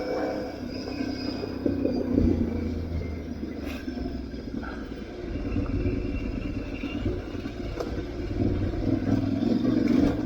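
Aprilia Tuareg 660's parallel-twin engine running under way off-road, its pitch rising and falling with the throttle, with a few short knocks.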